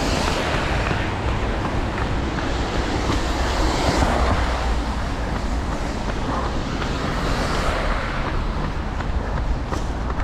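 Wind buffeting the microphone of a camera carried by a runner, a steady rumbling rush with a few swells, over faint, regular footfalls on a forest trail.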